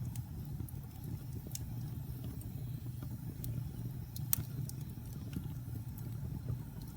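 Wood fire crackling and popping in a fireplace, with irregular sharp snaps over a steady low rumble of burning; the loudest pop comes a little past the middle.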